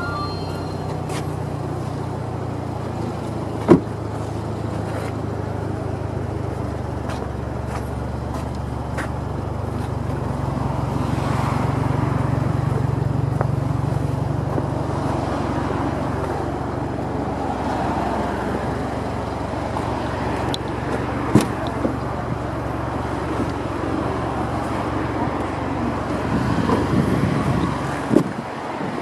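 Subaru WRX STI's turbocharged flat-four idling through a Kakimoto aftermarket exhaust, a steady low drone that swells slightly midway. A few sharp clicks sound over it.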